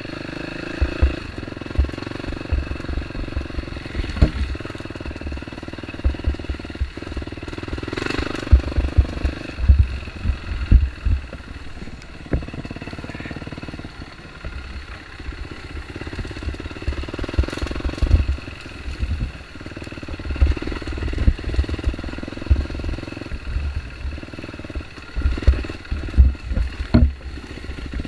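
Dirt bike engine running on an off-road trail, its revs rising and falling every few seconds, with frequent low thumps and a few sharp knocks over it.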